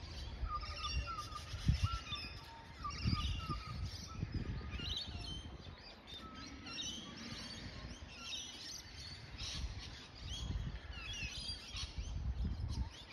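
Several birds chirping and calling, in many short, quick notes over a steady low rumble.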